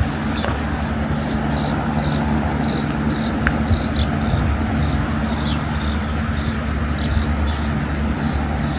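Steady low hum of an idling engine, with a short high chirp repeating evenly about two or three times a second.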